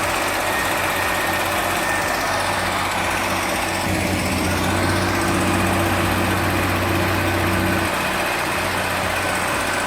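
Engine running steadily. About four seconds in it works harder with a deeper, louder note, then eases back a little before eight seconds.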